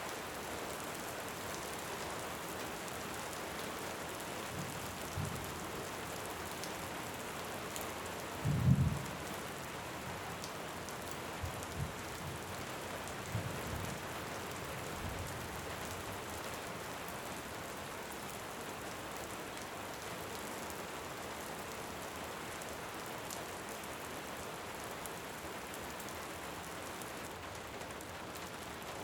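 Steady heavy rain, with distant thunder rumbling low several times; the loudest rumble comes about nine seconds in.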